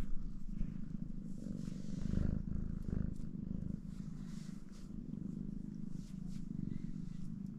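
Domestic cat purring steadily, a low, rapidly pulsing rumble.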